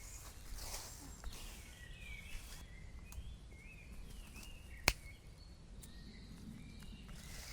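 Woodland ambience with birds chirping a few short calls, some brief rustling, and a single sharp click or snap about five seconds in.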